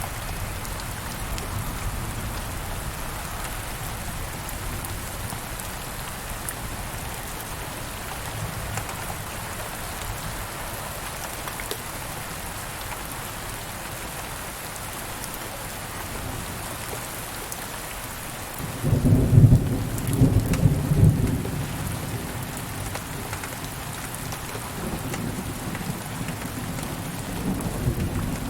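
Steady rain falling, with a loud roll of thunder breaking in about two-thirds of the way through and rumbling for a few seconds, then more low thunder rising near the end.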